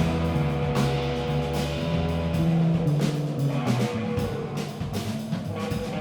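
A live band playing, with repeated drum hits over sustained bass and chord notes.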